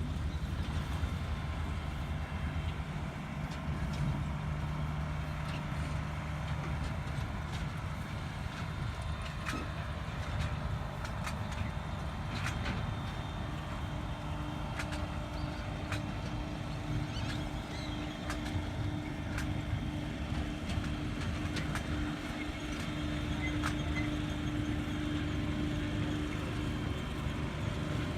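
Scale park train running: a steady low engine rumble with scattered short clicks and rattles. A steady hum joins about halfway through.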